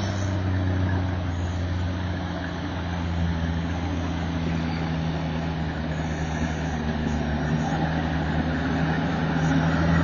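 Engine of heavy stump-removal machinery running steadily: a low, even hum with a steady noise over it.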